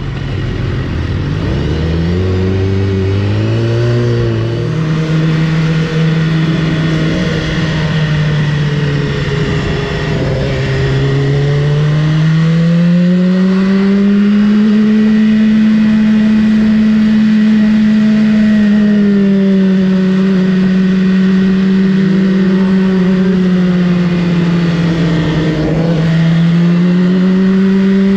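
BMW S1000RR's inline-four engine under way: the revs climb in quick steps through the gears for the first few seconds, then hold steady at cruising speed, rising and easing slightly with the throttle.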